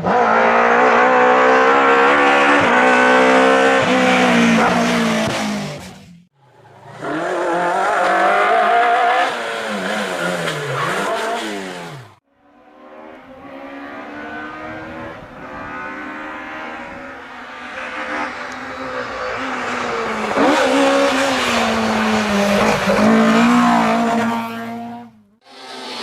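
Historic rally cars driven hard on a stage, engines revving up and down through the gears. Three short clips follow one another, each cut off abruptly, about six seconds in, about twelve seconds in and just before the end.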